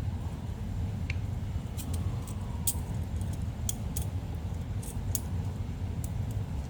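Light, scattered clicks and taps of small parts being handled while a sticking piece of a car radiator cooling-fan motor, just filed to round its corner, is tried in its slot again. It still sticks a little. A steady low hum runs underneath.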